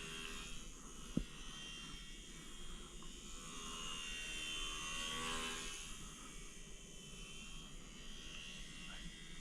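Small electric motor and propeller of an E-flite UMX Slow Ultra Stick RC plane whining faintly in flight. The whine shifts in pitch, grows louder around the middle and fades again. A single sharp click comes about a second in.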